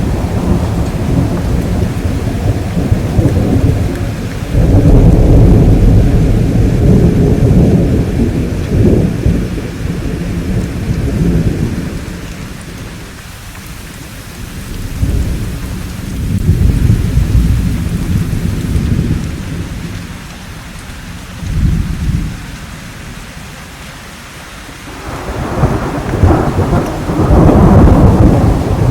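Steady rain with rolling thunder: deep rumbles swell and fade several times, a long one about five seconds in, a shorter one past the middle, and a loud one near the end, with the rain hiss carrying on between them.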